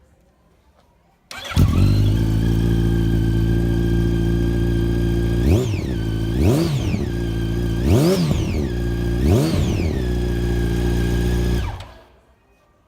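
Yamaha FZ8 inline-four motorcycle engine with an Akrapovic carbon exhaust starting about a second in and idling steadily. It is blipped four times in quick revs, then switched off near the end.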